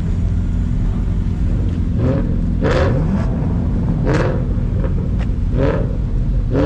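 Car engine rumbling at low speed, with short sharp bursts about a second and a half apart near the middle of the stretch.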